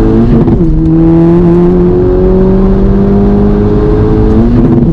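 Tuned Golf V GTI's turbocharged 2.0 four-cylinder accelerating hard: an upshift about half a second in, then the engine note climbs steadily through the next gear until another upshift near the end.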